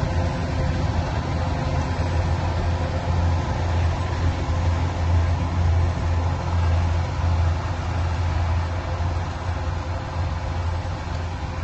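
Engine of a piece of farm machinery running steadily with a strong low hum.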